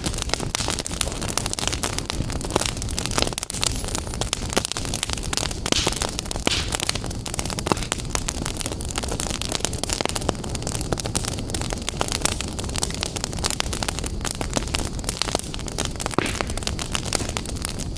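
Wood fire burning in a fireplace, with dense crackling and snapping pops over a steady hiss.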